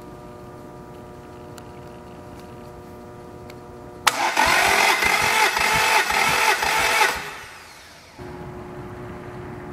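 Toyota 3SGE Beams inline-four engine being cranked over by its starter motor for about three seconds during a compression test, with a rhythmic beat from the compression strokes; it does not fire. A steady hum runs before and after the cranking.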